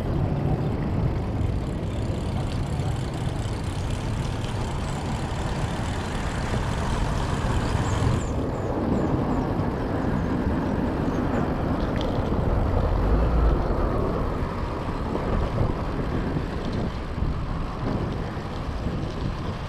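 Wind rumbling on the microphone of a moving bicycle, mixed with the steady noise of motor traffic.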